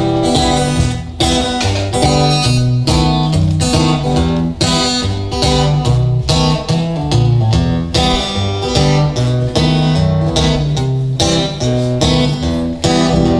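Acoustic guitar strumming chords over moving bass notes, an instrumental break between sung verses of a folk song.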